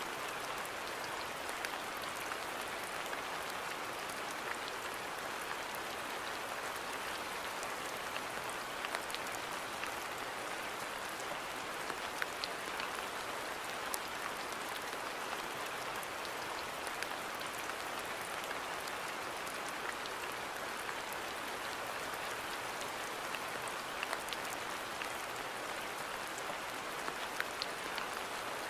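Steady rain falling in a garden: an even hiss with scattered sharp ticks of individual drops.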